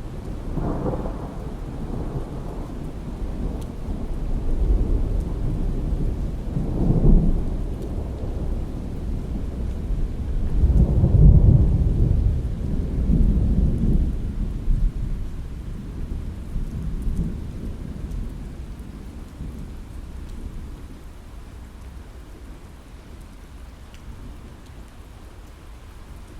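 Thunder rumbling in long rolling swells over heavy rain on a window, loudest about halfway through, then dying away into the steady rain.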